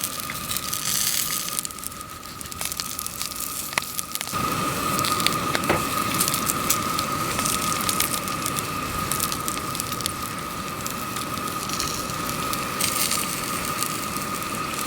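Battered rockfish pieces deep-frying in hot oil, a dense sizzle with steady crackling that grows louder about four seconds in. This is the first fry of Japanese karaage.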